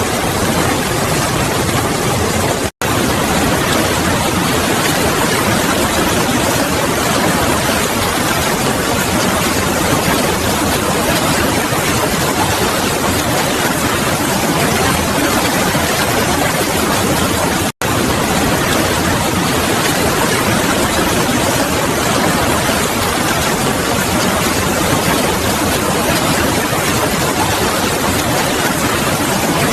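Steady, loud rushing noise, even from low to high pitch with no tones or rhythm, broken twice by a brief total silence (about three seconds in and about eighteen seconds in).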